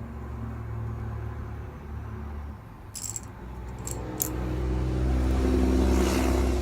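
Small electric motor running in two spells, the second louder, with a few sharp clicks about three and four seconds in: a powered screwdriver driving the iMac's bezel screws.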